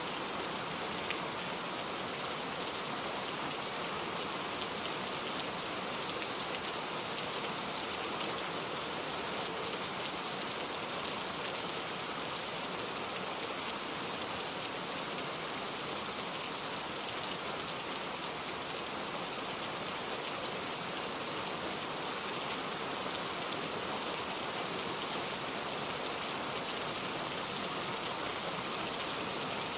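Steady rain falling, a dense even patter with occasional louder individual drops.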